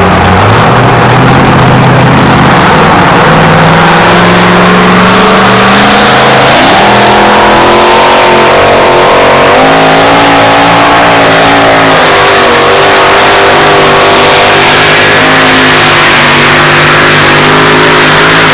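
Modified two-wheel-drive pulling truck's engine at full throttle under heavy load as it drags the sled, very loud. Its pitch climbs over the first few seconds, jumps and wavers midway, then holds until the engine is shut off abruptly near the end.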